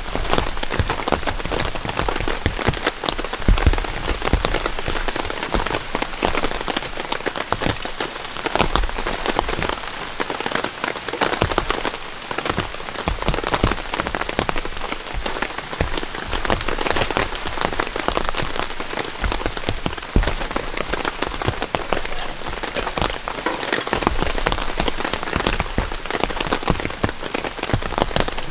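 Steady, fairly heavy rain falling, a dense even spatter of countless drops with no let-up.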